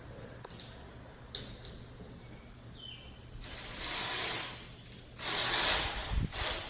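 Two hissing bursts of pressurised spray, each a little over a second long, as the cylinder walls of the Chevy 350 block are being cleaned. There is a light click early on and a low knock near the end.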